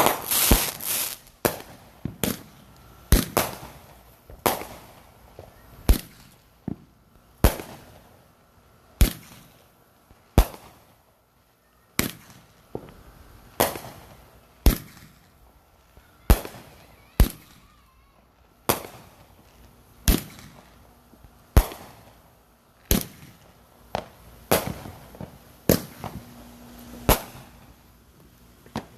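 Consumer fireworks going off in a steady run of sharp bangs, about one every second and a half, each trailing off briefly. A few bangs come close together at the start, and there is a short lull about eleven seconds in.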